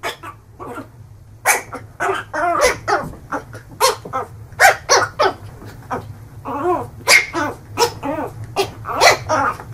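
A dog barking over and over in short, irregular barks, with a steady low hum under them.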